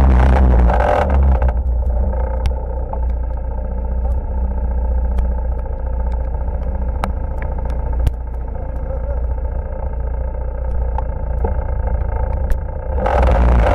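ATV engine running on an off-road ride, with a heavy steady low rumble and scattered sharp clicks and knocks. From about a second and a half in until near the end the sound goes muffled, losing its upper range.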